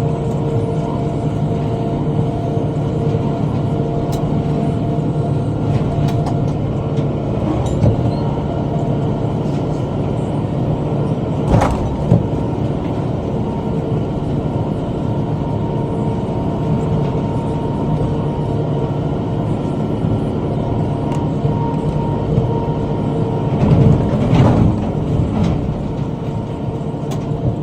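Tractor engine running steadily while pulling a bush hog rotary cutter through brush. Two sharp knocks come about twelve seconds in, and there is a louder, rougher stretch around twenty-four seconds in.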